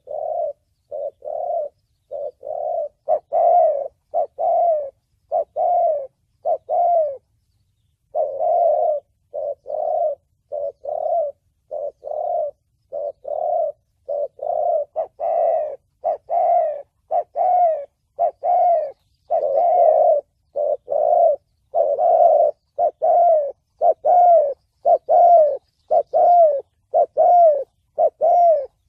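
Spotted dove cooing in the 'thổ bầu' voice used as a trapping lure: a long series of short repeated coos, roughly one to two a second, with a brief break about eight seconds in.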